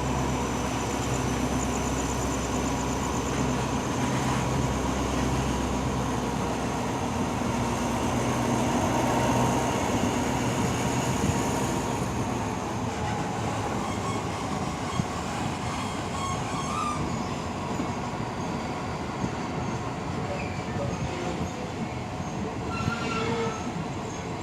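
A passenger train running along the track through the station: a steady rolling noise of wheels on rails, over a low diesel locomotive engine hum that fades after about ten seconds. The sound slowly grows quieter toward the end.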